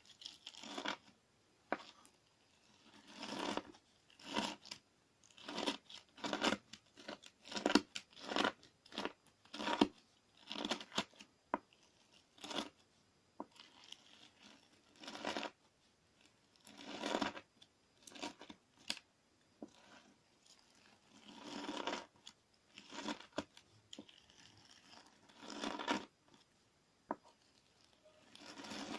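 Clear slime mixed with gritty 'gorigori' sand being scooped and worked with a wooden spoon, making grinding, sticky strokes. The strokes come irregularly, about one a second, some drawn out longer, with sharp clicks between.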